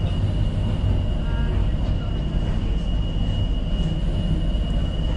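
Tyne & Wear Metro train running on the rails, a steady low rumble with a constant high-pitched whine over it.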